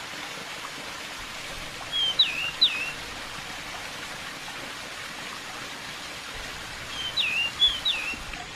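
Steady rush of running water, with a pied bushchat (decu) giving two short whistled phrases about five seconds apart. Each phrase is a brief note followed by two quick swoops that drop sharply and turn back up.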